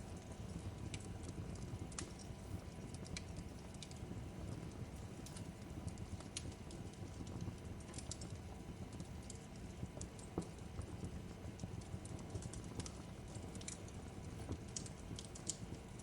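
Crackling fireplace: a steady low rumble of burning with scattered, irregular pops and snaps, a sharper pop about ten seconds in.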